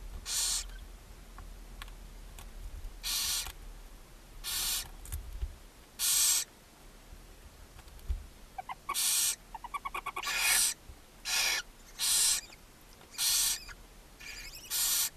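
Barn owl nestlings giving harsh, rasping hiss calls, the snoring food-begging call of young barn owls, repeated about ten times. About two-thirds of the way through comes a quick run of ticking, chittering calls.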